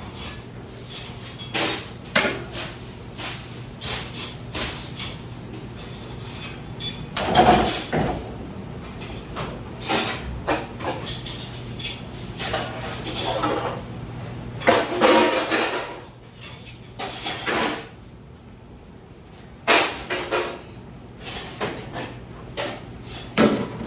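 Dishes, pots and metal utensils clattering and knocking irregularly as they are handled, over a steady low machine hum.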